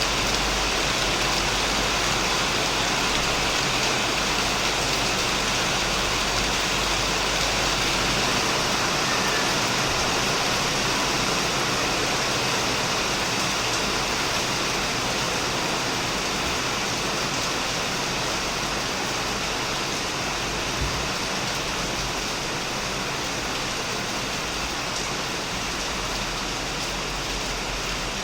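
Heavy rain falling steadily, a dense even hiss of drops on a shed roof, easing very slightly in loudness.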